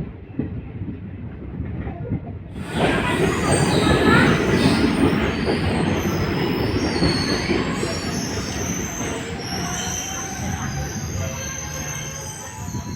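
Indian passenger train running on the rails with wheels squealing. A quieter stretch gives way about three seconds in to louder running noise with high squeals, which then slowly eases off.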